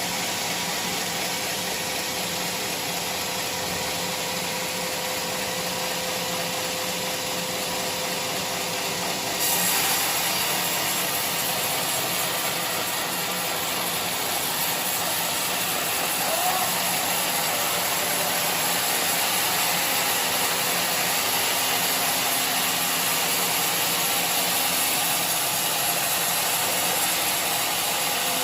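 Sawmill machinery running steadily with a rushing hiss; about nine and a half seconds in the sound turns sharper and hissier and a little louder, and stays that way.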